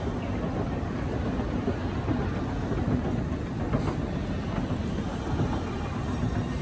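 Steady low rumbling background noise with no distinct events, from the building's machinery or the mall's ambience.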